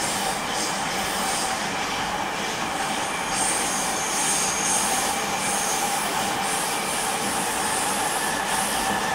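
Interior running noise of a JR East E231-series electric commuter train cruising at steady speed: an even rumble of wheels on rails with a steady whine. From about three seconds in, a high-pitched wheel squeal comes and goes.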